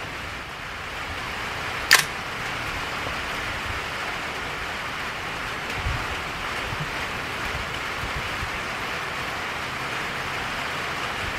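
Steady hiss of rain, with one sharp click about two seconds in and a faint low thump near six seconds.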